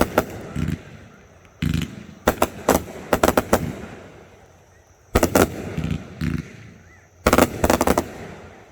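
Fireworks going off in repeated volleys of rapid sharp bangs and crackles, four volleys each lasting a second or two, with the echoes dying away between them.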